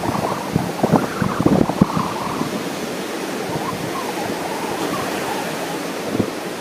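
Wind buffeting the microphone in irregular gusts over a steady rush of ocean surf. The gusts come in the first couple of seconds and again near the end, with a steadier stretch of surf rush between.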